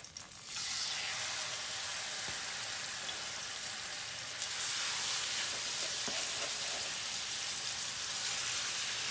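Raw chicken breasts sizzling as they are laid into hot oil in a frying pan. The sizzle starts sharply about half a second in and grows louder about four and a half seconds in as another piece goes in.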